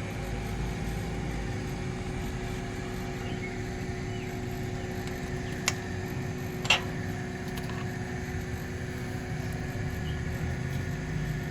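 An engine running steadily with an even hum, and two sharp clicks about a second apart near the middle.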